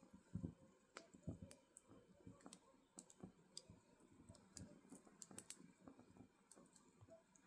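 Burning firewood crackling, with irregular sharp pops and snaps scattered through over a soft low flutter of flame.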